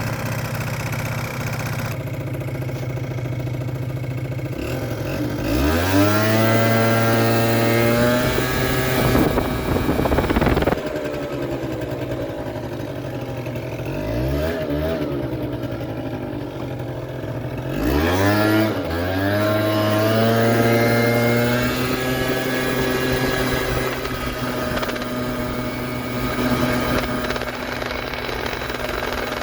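Kymco Super Fever ZX 50cc two-stroke scooter engine idling, then revved up and held high twice, about six and eighteen seconds in, with a short blip between, before settling back to idle. It runs smoothly but, to the owner, a bit lean on its original main jet.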